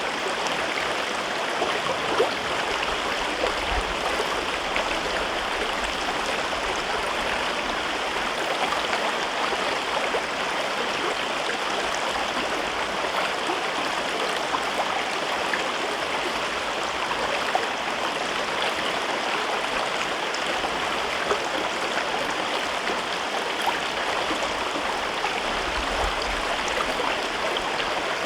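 River water flowing through a rocky gorge: a steady rushing and babbling, flecked with small splashes and gurgles.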